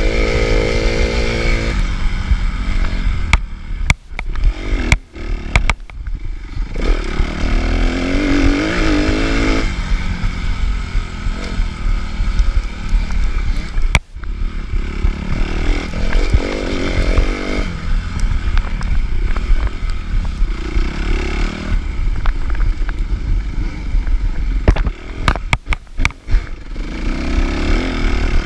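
Suzuki RM-Z250 four-stroke single-cylinder motocross engine revving up and down as the bike is ridden hard, with brief sharp drops in the engine sound when the throttle shuts a few times and some clatter.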